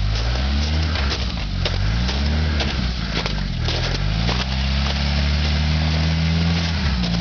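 Jeep rock crawler's engine revving up and down repeatedly under throttle. Its pitch climbs and drops several times and is held higher through the second half, with frequent short sharp cracks and clicks over it.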